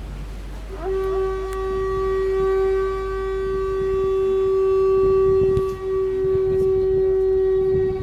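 A long, steady horn blast on one held pitch with overtones, starting about a second in.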